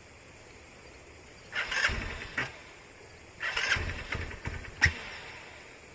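Motorcycle engine being started in two short bursts, each dying away after a second or so, the second ending in a sharp click.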